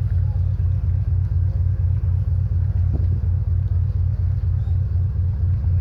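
Steady low engine rumble with a fast, even pulse.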